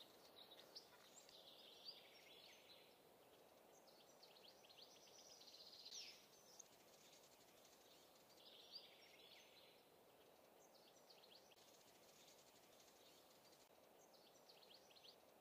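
Faint birds chirping and twittering in scattered short runs, over a low steady hiss.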